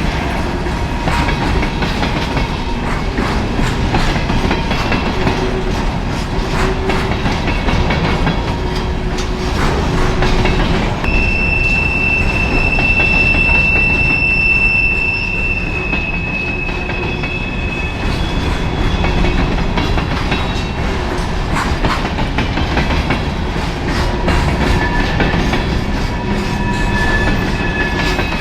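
Freight train cars rolling past, their wheels clicking over rail joints. A steady high-pitched wheel squeal holds for several seconds in the middle, and a lower squeal comes near the end.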